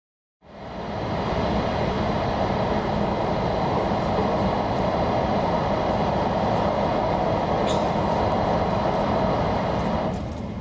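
Steady running noise of a Shinkansen train at speed in a tunnel, heard inside the passenger cabin. About ten seconds in the noise drops to a lower, lighter level as the train comes out of the tunnel into the open.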